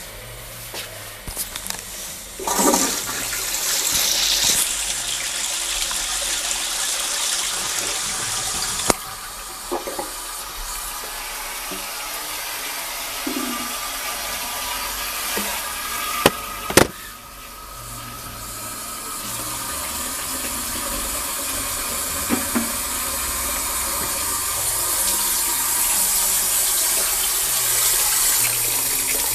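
Trent toilet flushing a bowl loaded with toilet paper: a loud rush of water starts a couple of seconds in, and water keeps running steadily afterwards, with a couple of sharp knocks.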